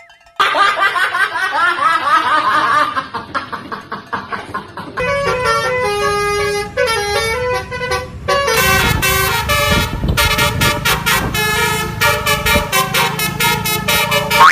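Multi-tone "telolet" bus horn of the Basuri type playing a tune. A wavering, gliding tone comes first, then from about five seconds in a quick run of separate stepped notes.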